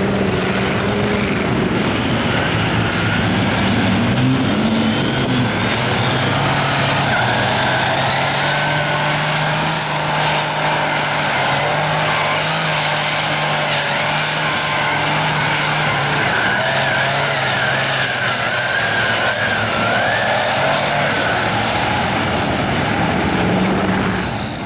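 Big mud truck's engine running hard at high revs, a steady loud drone with a high whine that rises about a quarter of the way in and holds, cutting off suddenly at the end.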